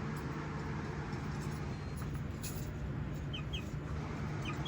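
Chickens in a coop: a few short, high chirps in quick pairs, over a steady low hum.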